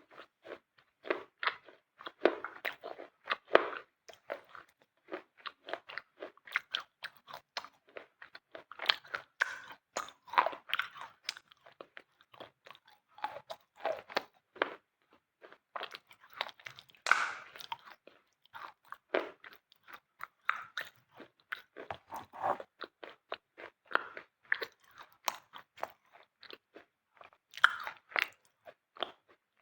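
Dry, brittle white material being crunched over and over in close-up: a quick, irregular run of crisp crunches and crackles with no pause longer than a moment.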